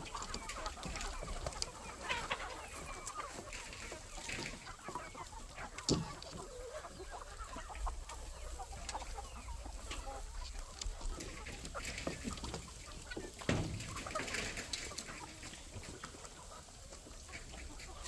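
A flock of chickens clucking and calling, with a few sharp knocks or bumps now and then, the loudest about six seconds in and again near the three-quarter mark.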